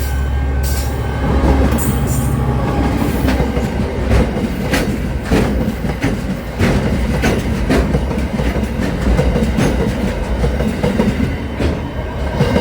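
A train running on the rails, with a steady low drone and many sharp wheel clicks over the rail joints.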